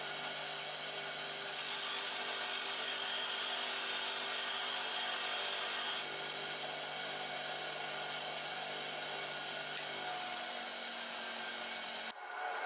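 Bench grinder running steadily, its motor humming under a hissing grind as a woodturning tool's steel is held to the wheel. The sound cuts off abruptly near the end.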